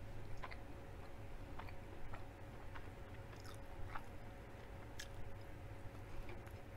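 A person chewing food close to the microphone with mouth closed, with soft wet mouth clicks scattered a few times a second over a faint steady hum.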